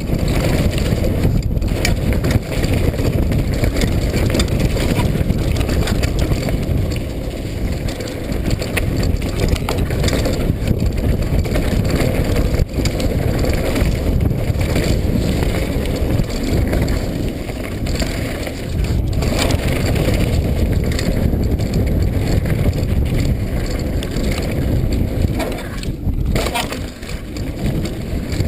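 Mountain bike riding a wet dirt trail: steady wind rumble on the camera's microphone, with the tyres crunching over mud and gravel and the bike rattling and knocking over bumps.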